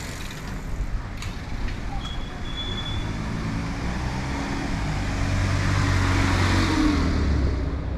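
A motor vehicle drives past close by. Its engine hum and tyre noise grow louder over several seconds, then drop away near the end.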